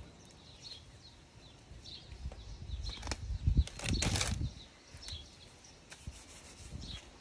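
Birds chirping: short high chirps repeating every half second to a second over low rumbling. About three and a half seconds in comes a louder burst of rustling noise lasting about a second.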